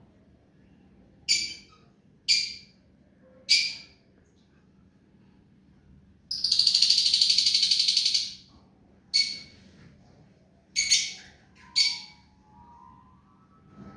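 Ringneck parrot (rose-ringed parakeet) calling: three short, sharp calls, then one long harsh screech of about two seconds, then three more short calls.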